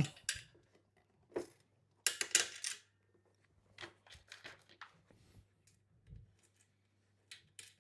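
Small metal clicks and clinks of a bolt and nut being handled and pushed through a bed-frame corner joint, with a short cluster of sharp clinks about two seconds in and scattered single clicks after.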